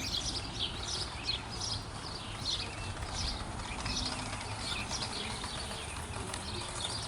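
Sparrows chirping: a steady run of short, high chirps, two or three a second, from several birds over a faint low rumble.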